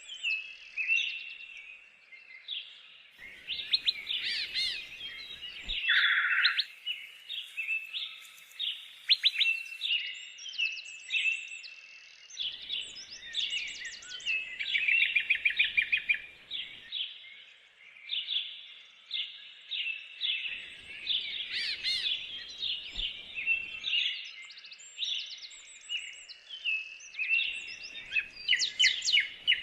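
Several songbirds singing and chirping together in woodland, a busy overlapping chorus of quick trills and short repeated notes.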